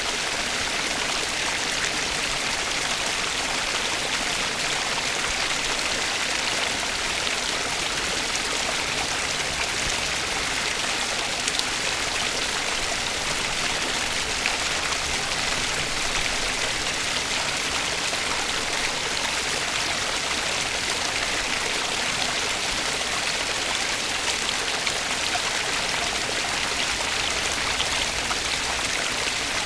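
Flowing water of a stream, a steady even rush with a few faint drip-like ticks.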